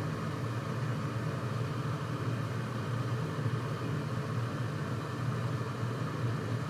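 Steady low machine hum over an even hiss, unchanged throughout.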